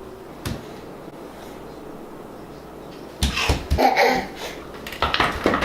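A young child's voice in short bursts, about three seconds in and again near the end, after a single click about half a second in.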